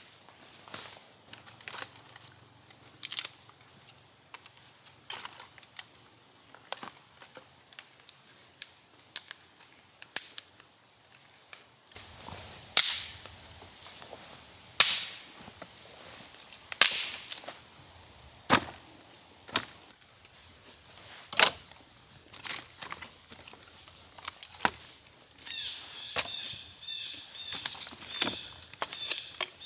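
A series of sharp, irregular knocks or strikes, mostly one to two seconds apart and louder in the second half. Near the end a bird chirps repeatedly.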